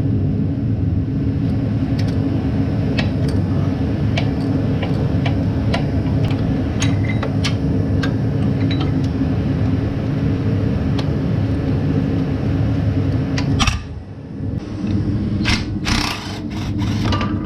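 A steady, loud, low machine drone with scattered sharp metallic clicks of hand tools as an exhaust is being unbolted. The drone cuts out for about a second near the end, then comes back with a quick run of clicks.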